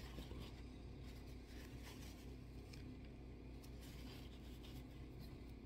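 Faint room tone with a steady low hum, broken by a few light clicks and scratchy rustles.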